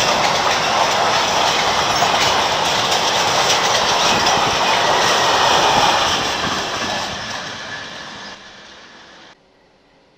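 Freight train of covered and tank wagons rolling past close by, its wheels clattering on the rails. The noise fades from about six seconds in and cuts off abruptly near the end.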